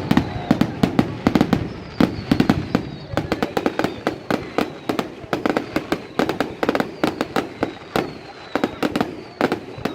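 Fireworks going off in rapid, irregular pops and bangs, several a second, with a faint high whistle slowly falling in pitch.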